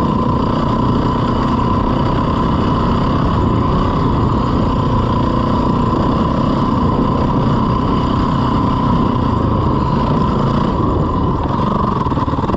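A 450cc four-stroke single-cylinder dirt bike engine running steadily under way.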